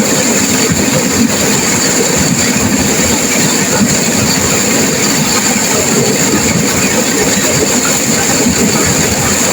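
Turbulent river water rushing and crashing, a loud steady wash of noise with no letup.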